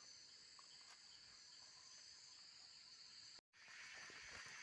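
Faint, steady chorus of insects, a high-pitched continuous drone, cut off by a brief dropout about three and a half seconds in.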